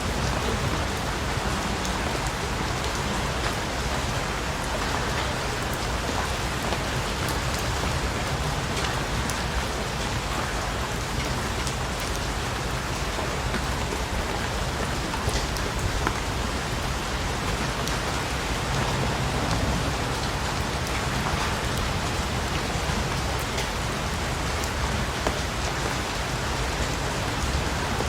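Steady rain falling, with scattered ticks of individual drops.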